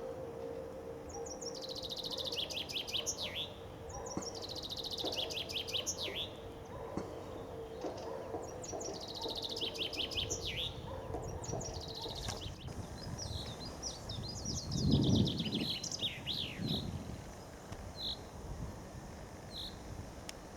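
Common chaffinches singing: about five song phrases, each a quick run of notes falling in pitch and ending in a flourish, followed by short single call notes near the end. A brief low rumble comes about three quarters through.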